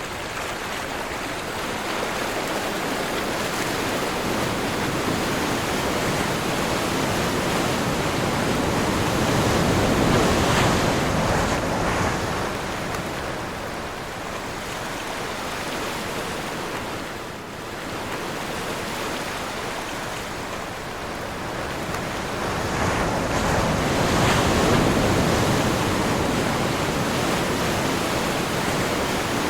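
Ocean surf rushing in on a windy day, a steady wash of breaking waves. It swells to a peak about a third of the way in, eases off, and swells again late on.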